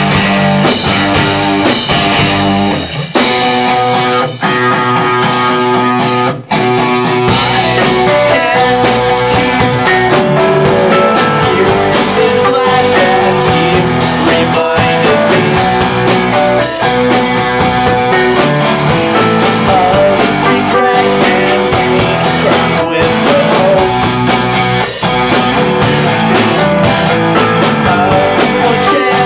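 Rock band playing live, an instrumental passage of guitar and drum kit. A few seconds in the bass and drums drop away, and the full band comes back in about seven seconds in.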